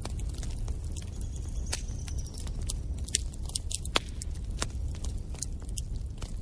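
Wood fire in a fireplace burning with a steady low rumble, crackling and popping irregularly. A thin high hiss sounds for about a second, a little over a second in.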